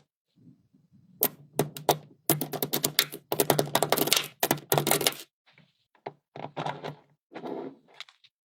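Small magnets clicking and snapping together: a few single clicks, then quick clattering runs of clicks in the middle, then scattered clicks.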